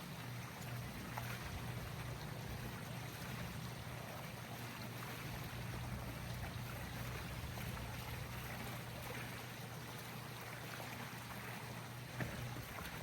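Steady low motor hum over running, trickling water, as from pool equipment with water flowing.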